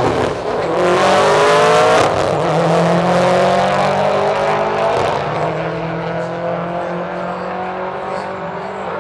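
Car accelerating hard down a drag strip. Its engine note rises through the gears, with shifts about two and five seconds in, then fades as the car moves away.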